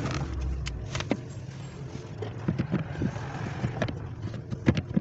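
Irregular clicks and knocks of hand tools and parts being handled while the repaired AC blower motor is fitted back into the vehicle, over a steady low hum.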